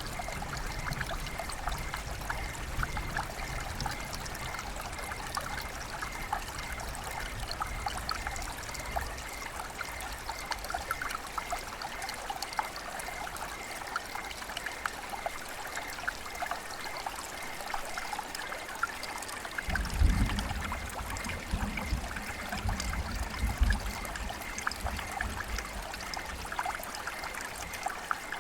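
River water flowing and trickling over rocks: a steady babble full of small splashes. A low rumble comes and goes from about two-thirds of the way through.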